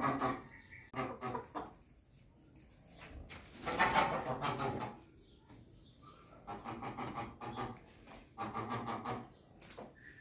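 Birds calling in a series of drawn-out pitched calls, each about a second long, with short pauses between them.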